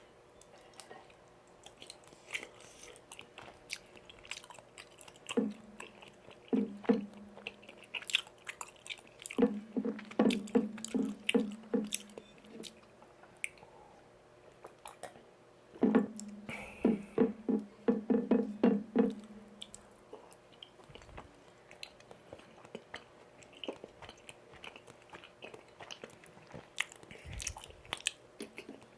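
Close-miked chewing and wet mouth sounds of someone eating chewy Korean rice cakes (tteokbokki) in sauce, coming in several bouts of rapid smacking with quieter chewing between.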